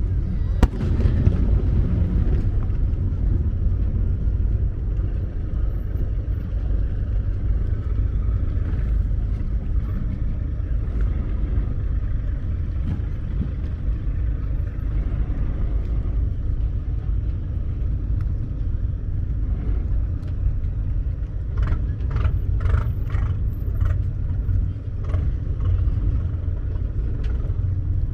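Fireworks display heard from the water: a constant deep rumble, with a sharp bang about a second in and a cluster of quick crackles and pops from about twenty-two to twenty-five seconds.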